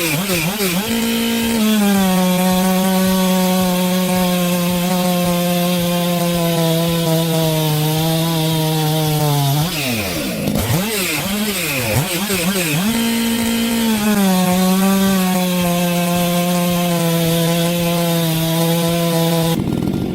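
Two-stroke chainsaw revving and then cutting into wood twice. During each cut the engine holds a steady, slightly lowered pitch under load for about eight seconds, and it revs freely up and down between the cuts. The sound stops abruptly just before the end.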